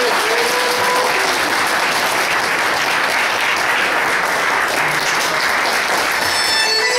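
Audience clapping steadily after a music performance. The last notes of the music fade in the first second, and music starts up again near the end.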